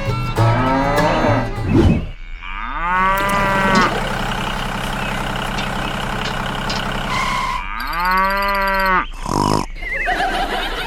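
Cattle mooing: two long moos, one starting about two and a half seconds in and drawn out for several seconds, the second near the end.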